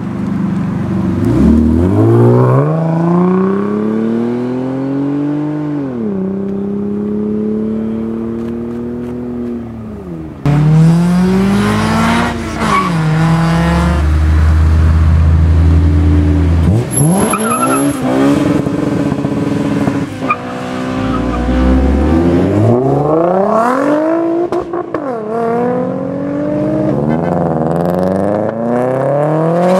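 Modified performance cars accelerating hard away one after another, engines revving up steeply and dropping back at each gear change or lift, several times over. A hissing rush of noise joins in for a few seconds around a third of the way in.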